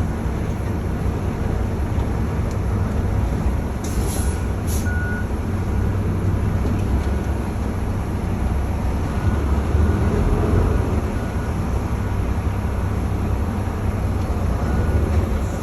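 Diesel engine of a semi-truck running with a steady low rumble. About four seconds in come two short hisses, typical of air-brake release. Faint, intermittent high beeps sound on and off, like reversing beeps.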